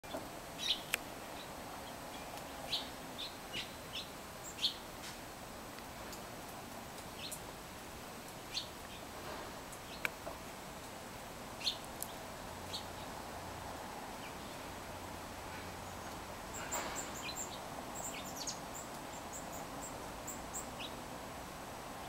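Small birds chirping: scattered short, sharp chirps, with a run of very high, thin notes a few seconds before the end, over steady faint background noise.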